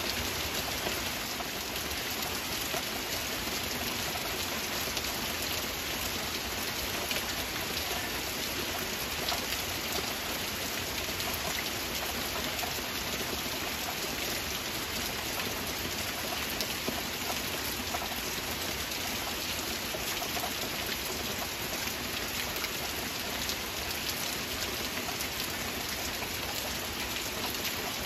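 Steady rain, an even hiss of many drops that neither builds nor eases.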